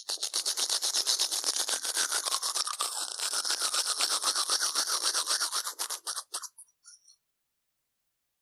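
Rapid back-and-forth scrubbing, many strokes a second, steady for about six seconds before it trails off in a few last strokes.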